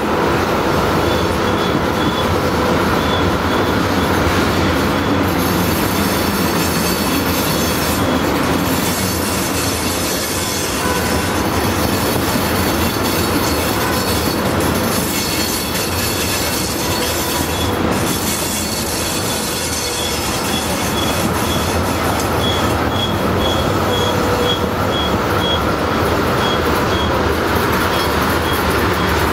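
Loaded ethanol tank cars of a freight train rolling steadily past, with a continuous rumble of steel wheels on rail. Thin, high-pitched wheel squeal comes and goes over it, the sound of wheel flanges grinding around a sharp curve.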